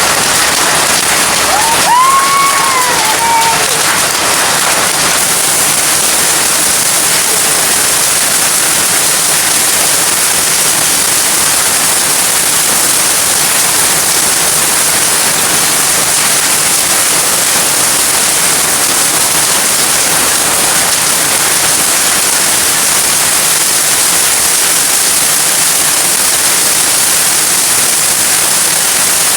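Steady, loud rushing noise. About two seconds in, a short call or whistle rises and falls in pitch once.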